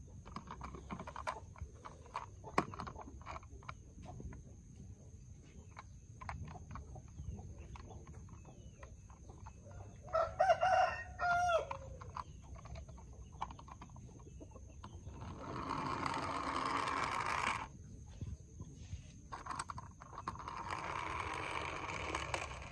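A rooster crows once about ten seconds in, a wavering call of about a second and a half. Light clicks and knocks are scattered throughout, and two stretches of steady rushing noise of about two seconds each follow, the second near the end.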